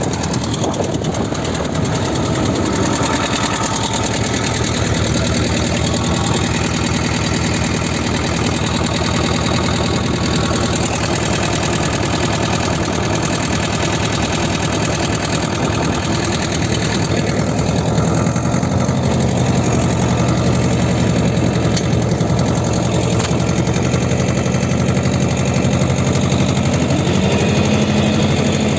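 T-25 tractor's two-cylinder air-cooled diesel engine idling steadily with a fast, even beat of firing strokes, warming up after a cold start following a winter of sitting.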